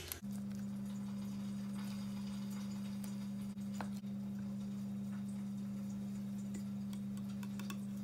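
Steady low hum with a few faint, light clicks over it.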